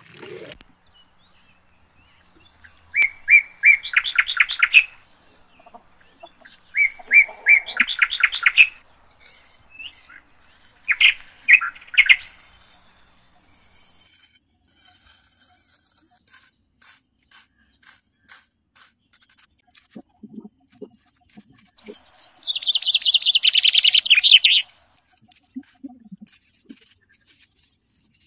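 Bird chirping: several bursts of rapid, repeated high notes, the loudest burst near the end. Faint scraping of a small tool digging in sand between them.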